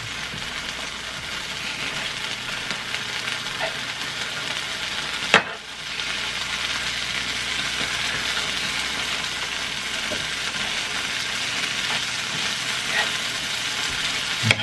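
Melted mozzarella sizzling steadily in a hot pan, catching and beginning to burn on the bottom. One sharp click sounds about five seconds in.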